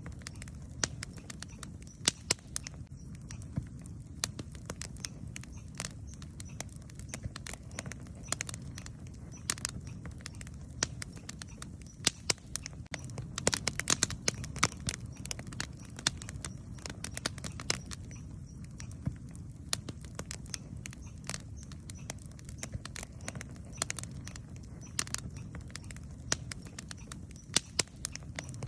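Wood campfire burning, crackling and popping with frequent, irregular sharp snaps over a low, steady rumble.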